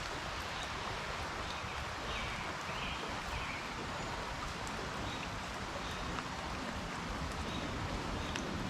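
Steady hiss of water, with a few faint ticks.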